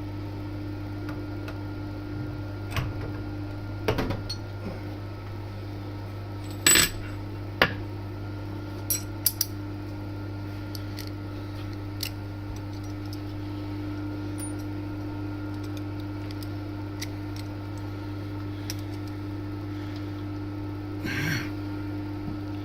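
Scattered metal-on-metal clinks and knocks from collets and milling tooling being handled and swapped in a collet chuck, the loudest about seven seconds in, with a short rattle near the end, over a steady low workshop hum.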